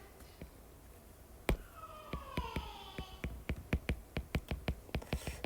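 A run of light clicks and taps, about three or four a second, starting with a single sharper click about a second and a half in, as of hands working a pen, stylus or keys.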